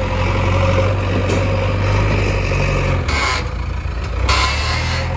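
Heavy diesel engine of a backhoe loader or tractor running steadily, its note shifting about three seconds in, with two short hisses, one about three seconds in and another a second later.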